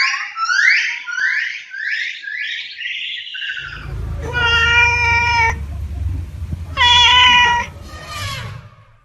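Animal calls: a rapid series of short rising chirps, then two long drawn-out calls over a low rumble.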